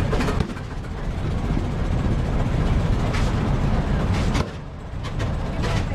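Vintage tractor engine running as it drives past.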